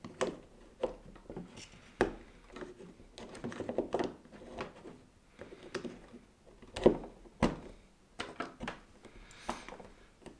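Irregular clicks and light knocks of small plastic and metal parts being handled, as a new drive motor is fitted into an LGB model locomotive's motor block gearbox; the sharpest knocks come about 2 s and 7 s in.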